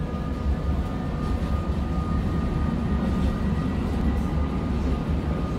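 Steady low rumble of a moving train heard from inside the carriage, with a faint steady high whine over it.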